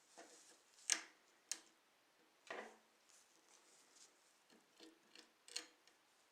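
Irregular light clicks and taps of small parts and hand tools being handled on a diecast Dodge Viper SRT-10 ACR model car, a few sharper clicks among fainter ticks.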